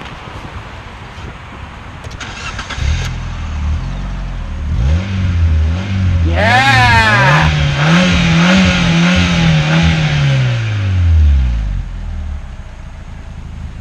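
A Fiat Panda's 1.2-litre four-cylinder petrol engine cranks and starts about two seconds in, then settles to idle. It is revved several times, the last rev held and falling back to idle near the end.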